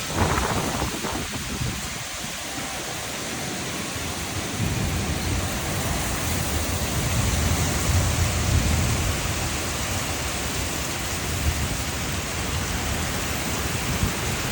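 Steady rain falling during a thunderstorm, with a long, low roll of thunder rumbling from about five seconds in until about ten seconds in.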